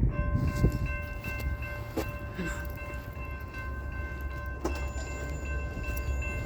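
Locomotive air horn sounding one long continuous blast, several steady notes at once, over a low rumble of the approaching train.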